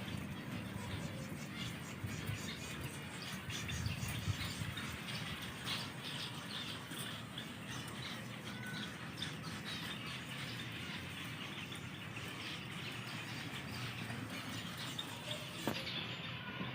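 Faint, scattered chirping and calling of small aviary finches.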